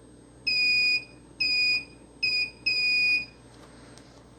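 Multimeter in continuity mode beeping four times, each a steady high-pitched tone of uneven length, in the first three seconds. The beeps sound as the probes touch the capacitors: they are connected to each other on the same shorted power rail.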